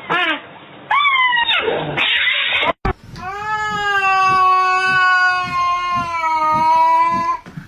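Cats yowling: a short yowl that rises and falls about a second in, then, after a cut, one long yowl held at a steady pitch for about four seconds.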